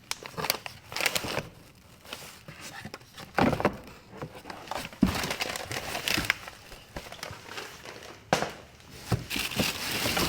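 Packaging crinkling and rustling as mower parts are lifted out of their box, with a few irregular knocks and bumps.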